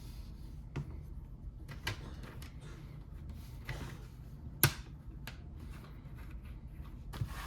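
Lego pieces being handled: a few small plastic clicks and brief rustles, with one sharper click a little under five seconds in, over a steady low hum.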